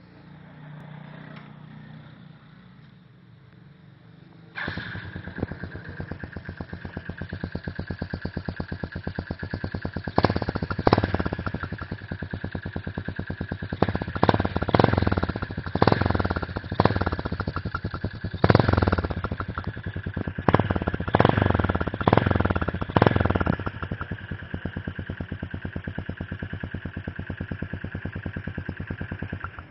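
Yamaha 135LC motorcycle's single-cylinder four-stroke engine with its stock exhaust. It starts up about four seconds in and idles with an even beat. Through the middle it is revved in a string of short throttle blips, then it settles back to idle.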